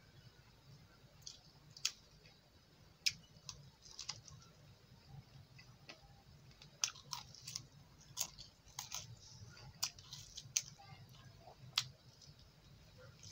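Close-up mouth sounds of eating: chewing, biting and wet smacking clicks at an irregular pace as meat and rice are eaten by hand, over a faint steady low hum.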